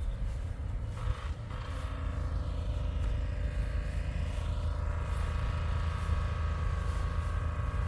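A vehicle engine running steadily with a low rumble, joined by a steady higher hum about a second and a half in.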